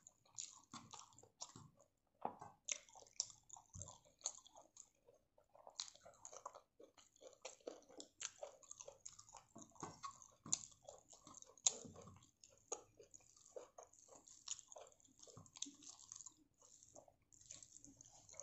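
Close-up, quiet chewing of prawn rice eaten by hand: many short, irregular wet clicks and crackles of the mouth working the food, with fingers mixing rice on the plate.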